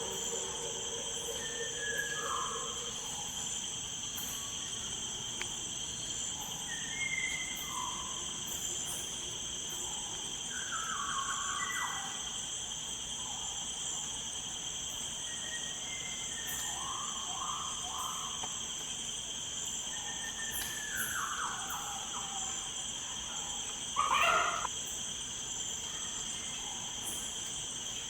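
Steady, high-pitched insect chorus running throughout, with short bird calls scattered over it and one louder call about 24 seconds in.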